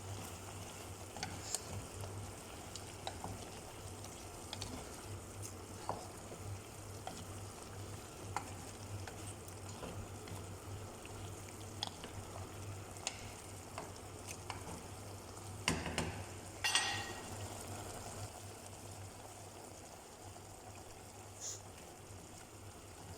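Chicken adobo frying in a pan: a steady sizzle with scattered small pops and crackles. About two-thirds of the way through come two brief, louder clatters, as of stirring.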